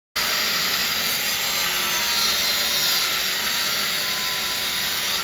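An electric power tool cutting marble: a loud, steady grinding noise that starts suddenly.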